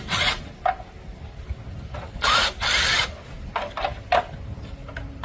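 Hand tools working on metal engine parts: a run of sharp clicks and knocks, with two short hissing bursts, one right at the start and a longer one about two seconds in.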